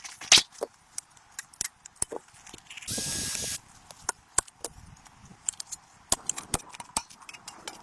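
A short, steady hissing spray lasting well under a second, about three seconds in, among scattered sharp clicks and taps.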